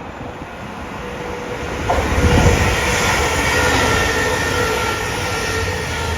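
A train going by close, its rumble swelling to a peak about two seconds in and holding, with steady whining tones over it.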